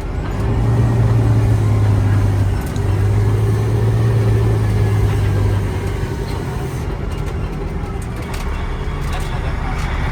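Fire truck's engine and road noise heard from the cab while driving: a loud, steady low drone that breaks briefly and drops away about six seconds in, leaving the rumble of tyres and road.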